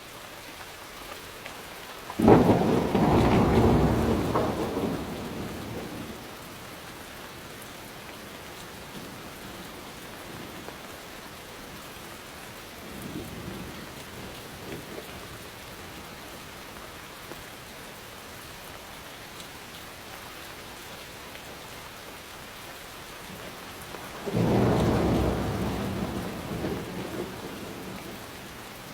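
Steady rain falling during a thunderstorm. A loud thunderclap breaks in about two seconds in and rumbles away over several seconds, a fainter rumble comes midway, and a second loud clap rolls in near the end.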